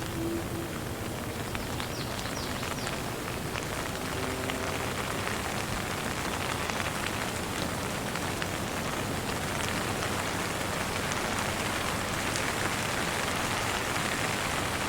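Steady rain falling, a dense hiss with many individual drops pattering, growing slightly louder in the second half.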